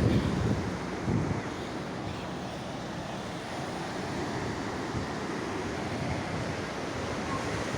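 Sea waves washing onto the shore, with wind buffeting the microphone; the surge is louder in the first second or so, then settles into a steady wash.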